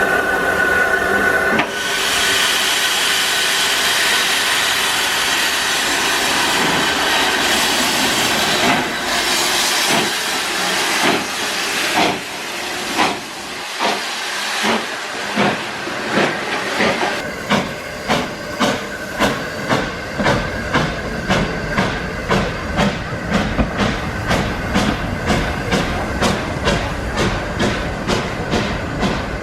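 Steam locomotive pulling away: a long steady hiss of steam, then exhaust chuffs that begin slow and uneven and settle into an even beat that gradually quickens as the train gathers speed.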